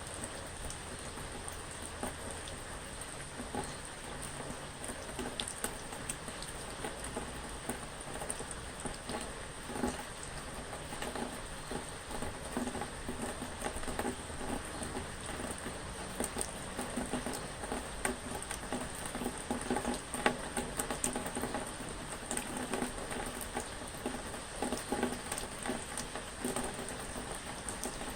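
Rain falling steadily, many drops pattering and ticking irregularly on a surface.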